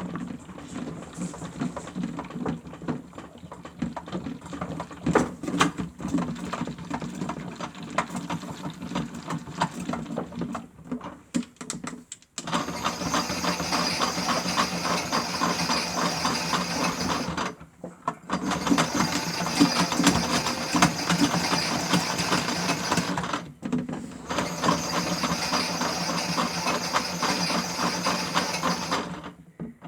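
Small electric motor of a Miele W1 toy washing machine whirring as its drum turns, rattling and quieter for the first twelve seconds. It then runs louder in stretches of about five seconds, with short breaks between them, as in a wash tumble.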